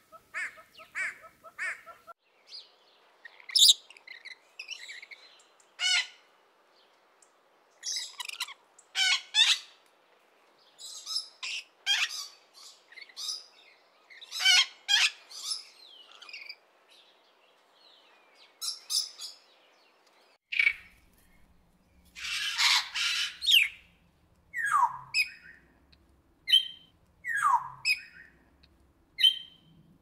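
Birds calling, in several edited segments: a quick series of repeated calls in the first two seconds, then scattered sharp chirps and squawks, and from about twenty seconds in a run of descending whistled notes over a faint low hum.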